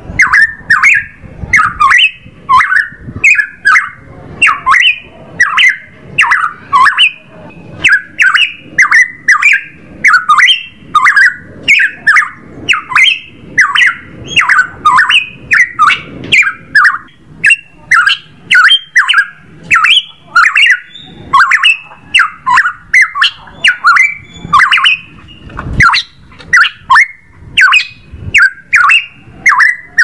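Cucak emas Papua calling over and over: loud, harsh notes about two a second, each dropping in pitch, with a sharp click at the start of every note.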